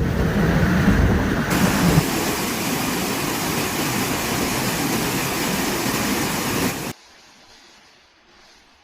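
Loud steady rushing noise that cuts off suddenly about seven seconds in, leaving a fainter rush.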